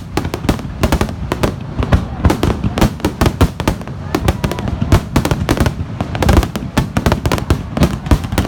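Fireworks finale barrage: aerial shells bursting in rapid, overlapping succession, several bangs a second with no let-up, over a deep continuous rumble.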